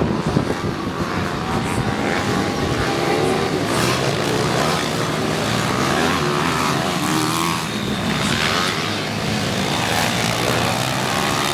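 Pit bike engines running hard during a race, their pitch rising and falling as the riders open and close the throttle.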